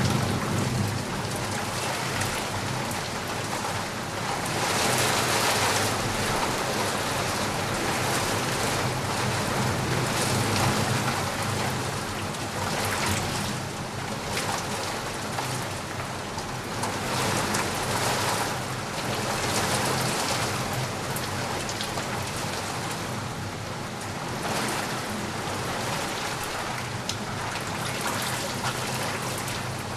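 Steady heavy rain falling, with the patter of raindrops on surfaces and slow swells in intensity every few seconds.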